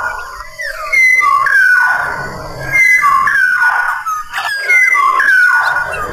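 Black-naped oriole (kepodang, Sumbawa form) singing: a loud, fluty whistled phrase that steps down in pitch and ends in a falling slur, repeated three times about two seconds apart.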